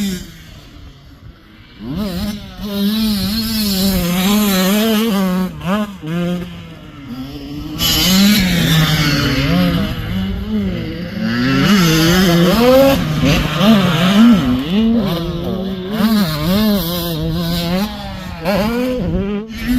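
85cc two-stroke dirt bike engines revving, the pitch rising and falling over and over with the throttle. Quieter for about the first two seconds, then loud.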